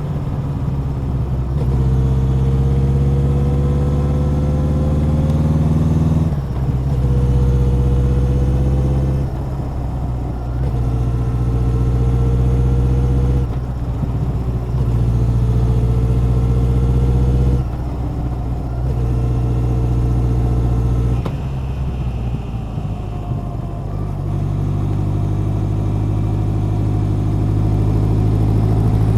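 Honda CB1100's air-cooled inline-four exhaust under way, the throttle opened for a few seconds at a time with the engine note rising slightly, then eased off briefly, about five times over; near the end it pulls steadily with a slowly rising note.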